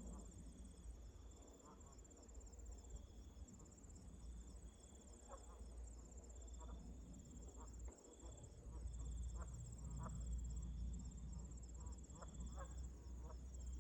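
Distant geese honking now and then, over steady high pulsed insect trills and a low wind rumble that rises about halfway through.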